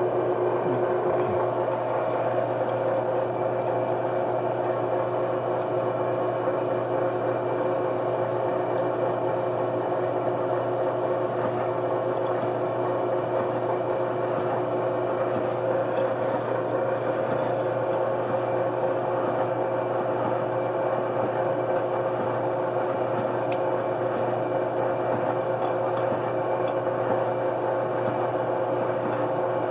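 Metalworking machine tool running at a steady speed: an even motor hum with a few held tones that does not change.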